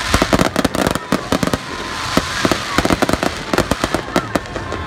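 Aerial fireworks bursting overhead: a rapid, dense series of sharp bangs and crackles, coming in thick volleys, over the lower rumble of the show.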